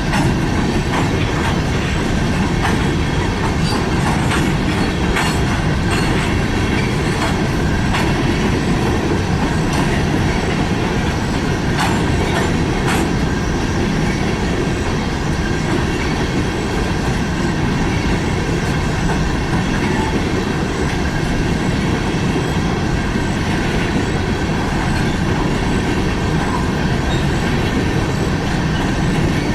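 Freight train cars rolling past at close range, a steady loud rumble of wheels on rail with scattered sharp clicks over the first half.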